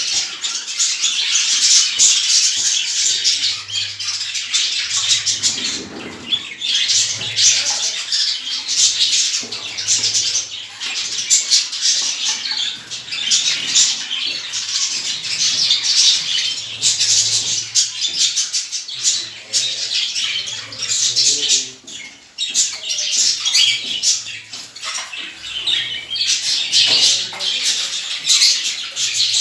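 A flock of caged birds chirping and chattering continuously, many calls overlapping.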